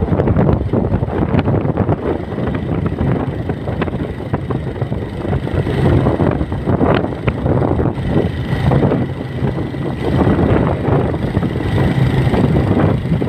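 Strong wind buffeting the microphone, with a low rumble underneath.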